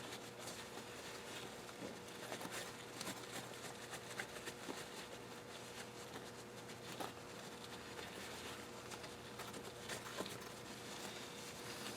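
Faint, scattered clicks and light taps from parts and hand tools being handled during engine work, over a steady faint electrical hum.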